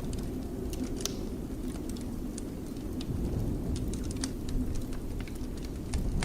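Fireplace crackling, with scattered sharp pops over a steady low rumble of blizzard wind.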